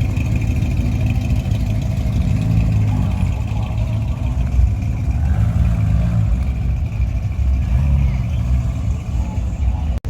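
Motorcycle engine running under way with wind noise, its revs swelling and easing about three times.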